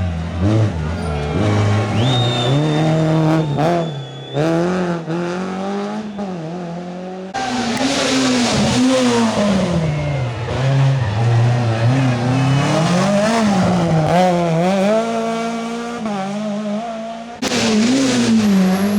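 Rally car engines revving hard on a special stage, the pitch climbing and dropping over and over through gear changes and lifts for corners. A high tyre squeal holds for about two seconds early on, and the sound cuts abruptly twice to another car.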